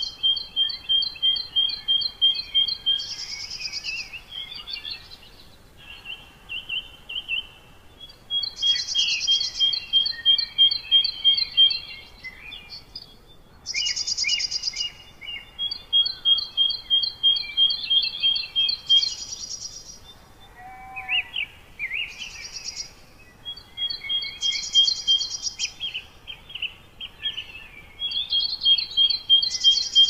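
Songbirds singing: one bird repeats a phrase of quick, evenly spaced high notes at a steady pitch, each phrase a few seconds long. Short higher chirps come between the phrases.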